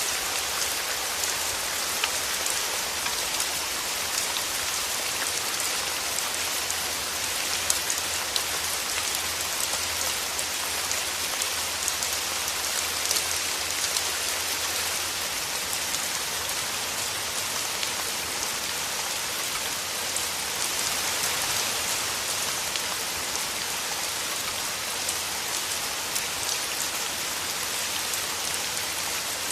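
Steady rain falling through forest trees: an even hiss of drops on leaves, with occasional louder single drops standing out.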